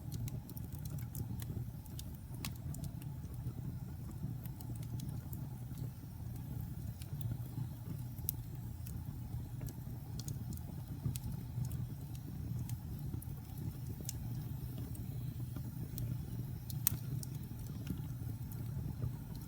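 Wood fire burning in a fireplace: a steady low rumble of the flames with scattered sharp crackles and pops of the burning logs, one louder pop near the end.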